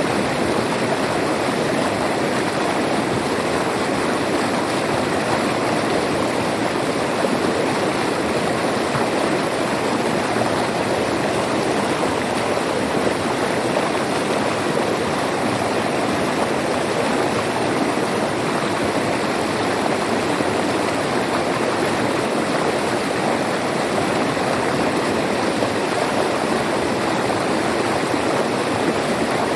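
River water flowing steadily over rocks, an even rushing babble without any let-up.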